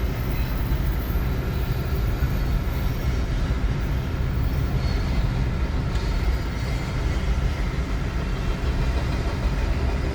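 A train rolling along with a steady low rumble, heard from a car pacing it, mixed with road noise.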